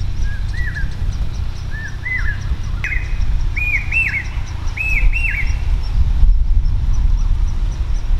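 A bird calling: a series of short arched notes, mostly in pairs, climbing in pitch over about five seconds before stopping. A steady low rumble runs underneath.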